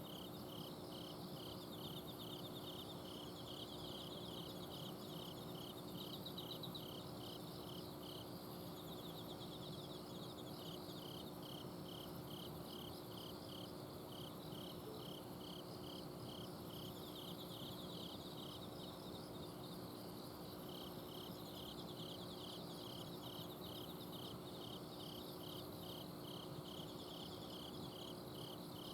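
Night chorus of autumn crickets and other singing insects: one insect gives evenly spaced high chirps about twice a second in long runs, with faster trills from others above it. Under it runs the steady low hum of an air-conditioner outdoor unit.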